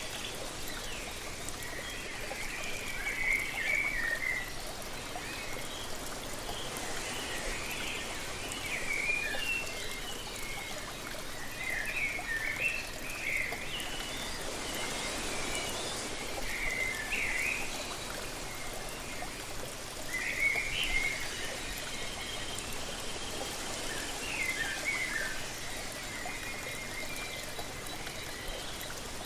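Steady rush of falling water, with songbirds calling in short chirping phrases every few seconds over it.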